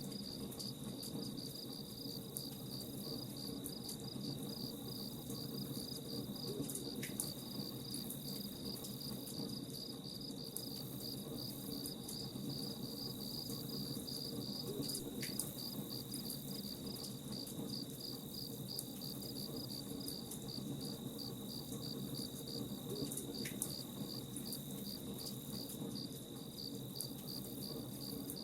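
Crickets chirping steadily, about two chirps a second, over the low, crackling rumble of a campfire, with a sharp pop every several seconds.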